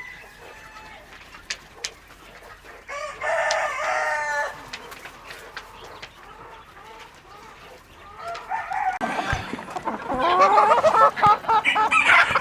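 Rooster crowing: one call about three seconds in, then louder, longer crowing and calling in the last four seconds, with chickens clucking.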